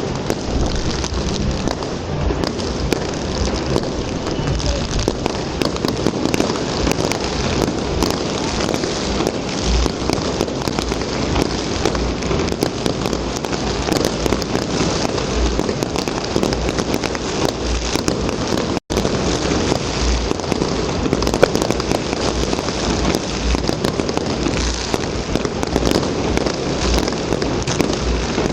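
Fireworks display: a dense, continuous crackle of popping with low thuds from bursting shells, and a momentary cut-out about two-thirds of the way through.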